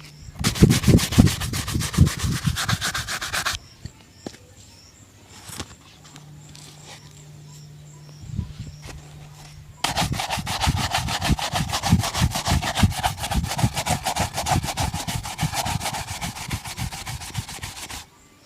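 A shoe being brushed in fast, rhythmic back-and-forth strokes during a shoe shine. There are two spells of brushing: one for about three and a half seconds at the start, then a quieter pause of about six seconds, then a second, longer spell of about eight seconds.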